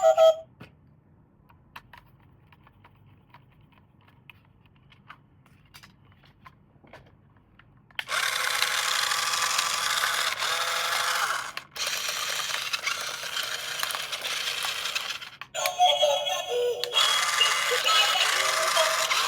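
A few faint light clicks and taps, then electronic music and sound effects from a toy's small built-in speaker, thin with no bass, starting about eight seconds in and briefly cutting out twice.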